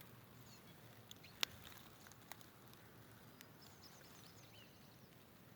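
Near silence: quiet outdoor ambience with a few faint clicks, one sharper about one and a half seconds in, and faint distant bird chirps.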